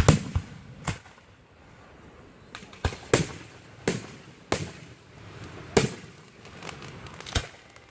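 Aerial fireworks shells bursting in a display: about eight separate sharp bangs at irregular intervals, a couple in quick pairs, each with a brief echoing tail.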